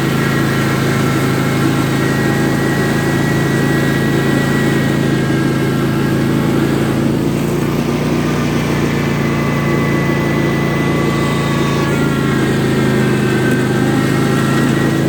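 Riding lawn tractor's small engine running steadily while the tractor drives along, with a steady hum and a faint higher whine above it.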